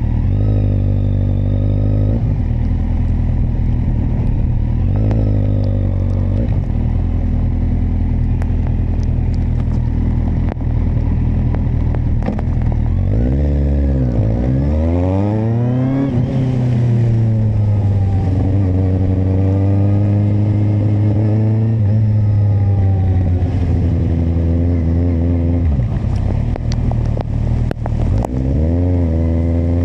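Kawasaki motorcycle engine running under way. Its pitch dips about 13 seconds in, then climbs steeply as it accelerates. It drops again around 26 seconds and rises once more near the end.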